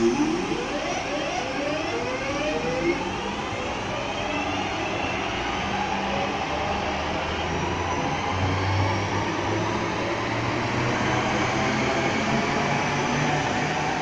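Train pulling away: a whine from its traction drive rising in pitch in several overlapping steps as it gathers speed, over a steady rumble.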